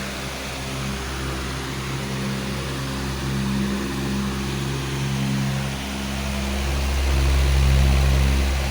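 Powerful electric fan running steadily: a rush of air over a low motor hum, swelling a little louder near the end.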